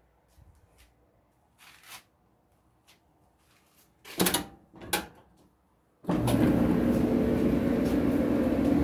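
Two knocks about four seconds in, then about six seconds in a Kenmore electric clothes dryer starts and runs steadily with a hum. The earlier squeak, which the repairman puts down to bad drum roller wheels, is gone.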